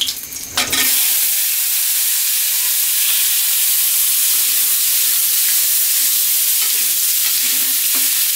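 Cut raw potatoes hitting hot oil in an aluminium karahi: a loud, steady frying sizzle starts about a second in and keeps on as a spatula stirs them.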